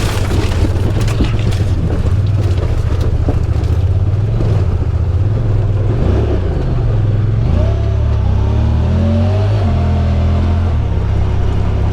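Side-by-side UTV engine running under load, its revs rising and falling several times in the second half.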